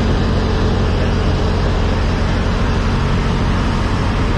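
Peterbilt semi truck's diesel engine running steadily with a deep, even rumble and road or wind noise over it.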